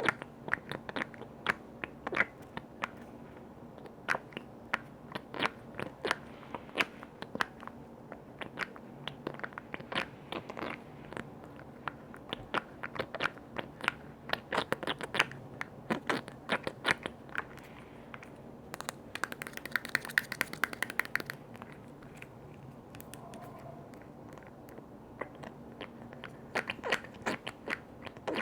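Quick, irregular taps and clicks on lids and containers, with a brief hiss about 19 seconds in.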